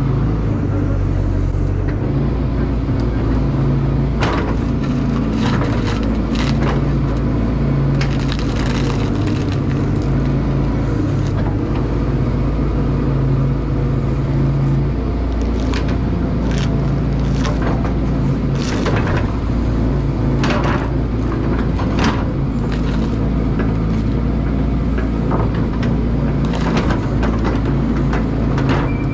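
Caterpillar excavator's diesel engine running steadily while the machine digs at a large fir stump, with many sharp cracks and knocks scattered throughout.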